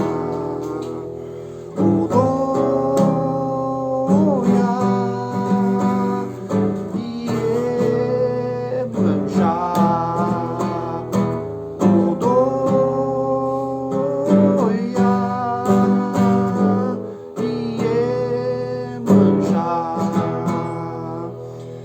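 Acoustic guitar strummed steadily in an instrumental break of a song, with a long-held, wavering melody line over the chords that changes note every second or two.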